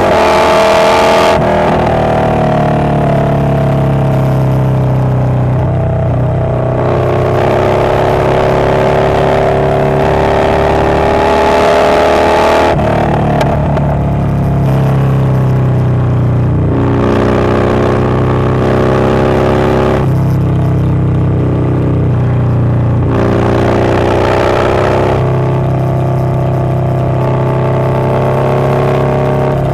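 Harley-Davidson Low Rider S's 117 cubic-inch V-twin with a Wood Performance 777XE cam running under way, its engine note stepping up and down several times as the throttle and gears change.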